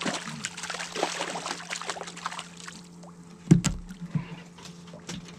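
Water splashing and dripping in a small fishing boat, with scattered clicks and one loud knock about three and a half seconds in, over a steady low hum.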